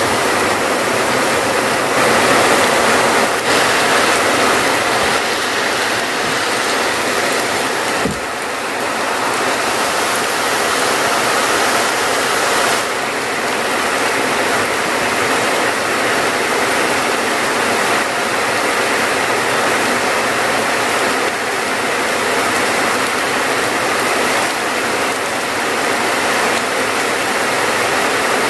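Steady heavy rain, a dense even hiss with no separate drops standing out; the level dips briefly about eight seconds in.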